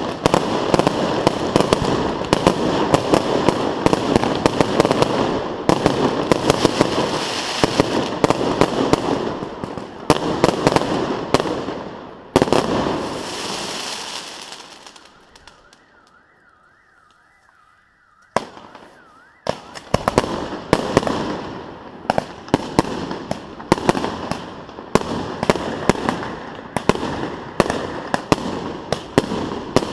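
Fireworks display: a dense barrage of rapid bangs and crackling. About halfway through it dies away into a brief lull of a few seconds, then a fresh salvo of rapid bangs starts up.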